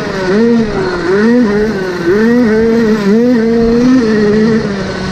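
Motocross bike engine revving hard, its pitch rising and dropping back about once a second as the throttle is worked and the gears change.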